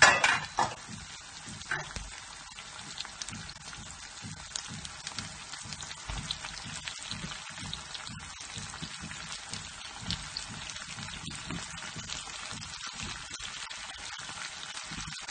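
Potato chunks going into a frying pan of hot oil and onions: a loud rush of sizzle in the first second and another short one about two seconds in, then steady crackling and spitting as they fry.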